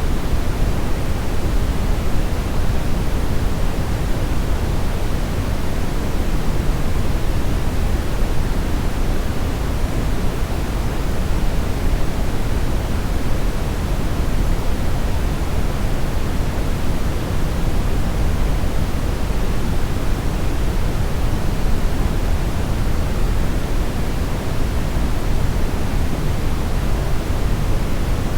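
Steady brownish noise: an even, unchanging hiss-rumble weighted toward the low end, with no distinct events.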